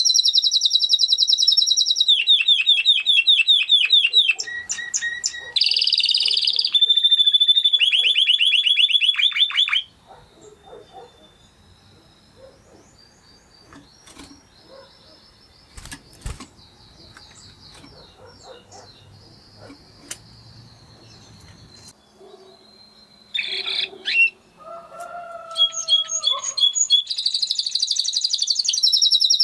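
Spanish Timbrado canary singing rapid, ringing trills, each phrase a fast run of repeated notes. The song breaks off about ten seconds in for a quieter stretch of faint chirps and clicks, and the loud trilling starts again a few seconds before the end.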